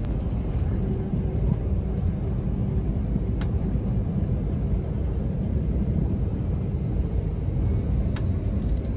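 Amtrak passenger train running at speed, heard from inside the coach: a steady low rumble of the wheels on the track, with a couple of faint ticks.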